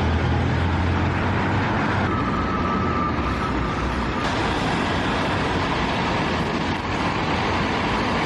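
Steady vehicle noise: a low motor hum under a dense wash of hiss. The hum drops away about four seconds in, and a faint high tone sounds briefly about two seconds in.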